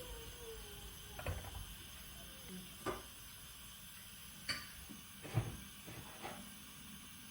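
A few light clicks and taps of kitchenware, about five, spaced a second or so apart, over a faint hiss.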